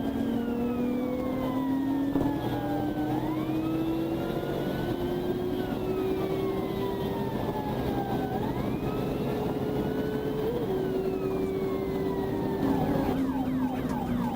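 Police cruiser siren in a slow wail, rising and falling about every five seconds, switching to a fast yelp near the end. Underneath, the cruiser's engine and road noise run steadily, the engine note climbing slowly as it speeds up.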